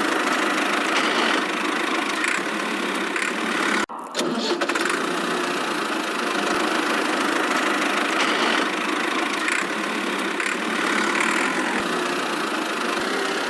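A motor running steadily, with a thin sound that has little bass. It cuts out abruptly for a moment about four seconds in, then carries on.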